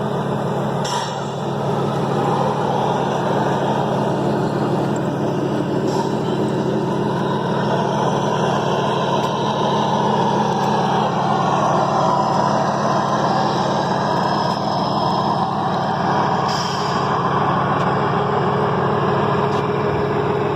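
Model truck engine sound, as from an RC scale truck's sound unit, running steadily, with three brief hisses.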